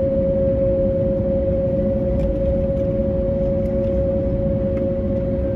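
Cabin noise of an Airbus A321neo taxiing after landing: a steady engine and air-conditioning hum over a low rumble, with a few faint clicks.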